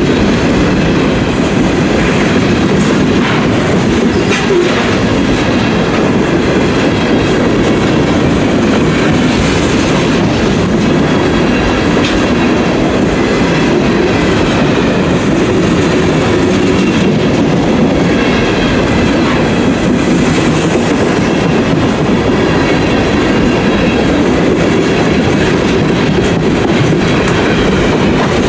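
Freight train cars rolling steadily past at close range, their wheels clacking over the rail joints.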